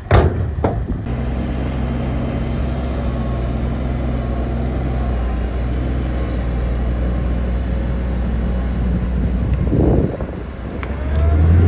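Heavy diesel engine of earthmoving machinery running steadily under load, with two sharp clanks right at the start. The engine drops briefly about ten seconds in, then comes back louder near the end.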